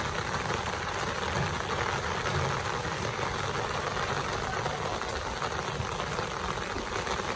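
Heavy rain falling steadily, an even hiss of rain on the ground and surfaces.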